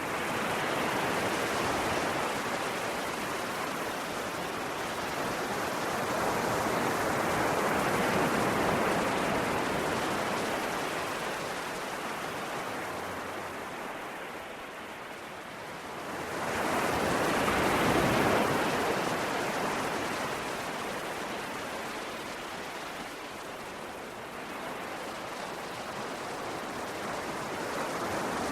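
Ocean waves breaking and washing up on a shore, the surf swelling and ebbing every several seconds. The loudest wave breaks about two-thirds of the way through.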